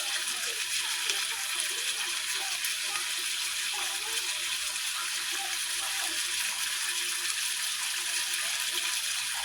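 Ribeye steak sizzling steadily in a hot pan.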